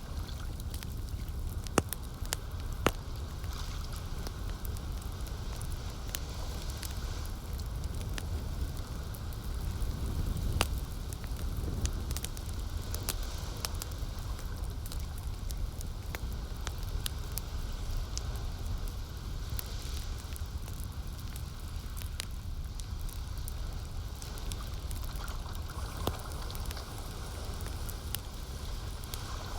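Campfire crackling, with many scattered sharp pops and snaps, a few louder ones about two and three seconds in. Beneath it a steady low rumble and soft hiss of lake water.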